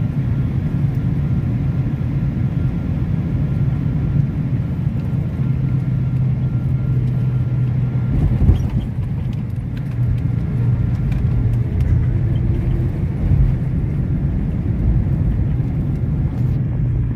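Steady low rumble of an airliner landing, with a few held low tones under it and a brief thump about eight seconds in.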